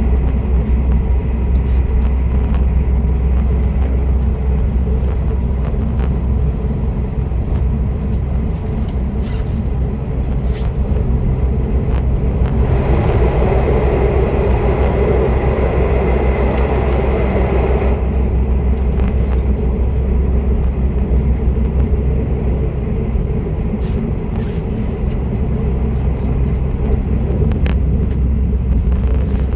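Passenger train running on the rails, heard from inside the carriage: a steady low rumble, with a louder rushing hiss for about five seconds midway through.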